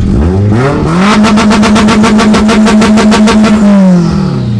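Car engine revved up, held at high revs with rapid, evenly spaced pops, then let back down near the end.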